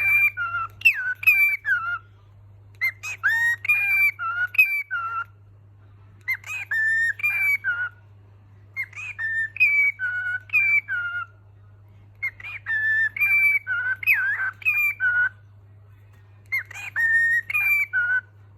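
Cockatiel whistling a tune in short repeated phrases of clear, gliding notes, with a pause of about a second between phrases. A faint steady low hum runs underneath.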